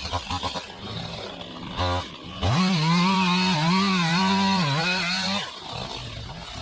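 Two-stroke chainsaw given a short blip of throttle, then held at full throttle for about three seconds with its pitch wavering up and down, before dropping back to a low rough running.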